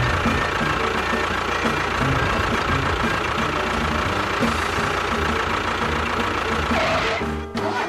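A motor running steadily with an even, pulsing chug, dipping briefly near the end.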